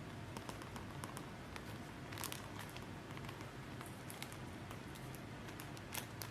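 Faint scattered clicks and crinkling, like small things being handled, over a steady low hum; a louder click comes about two seconds in and another near the end.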